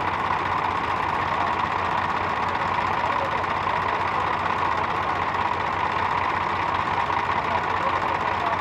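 Tractor engine running steadily at a constant pitch, without revving up or down.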